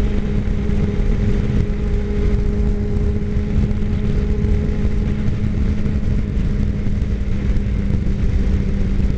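Motorcycle engine running at a steady cruising speed, a constant hum, with wind rumbling over the microphone as the bike rides along.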